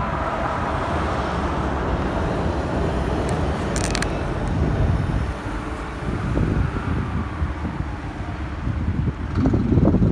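Motorcycle riding in city traffic: engine and road noise mixed with wind rumbling on the microphone. A short, faint high clicking comes about four seconds in.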